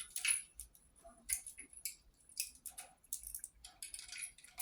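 Pet parrot playing on a hanging toy: scattered light clicks, scratches and rattles at no steady rhythm.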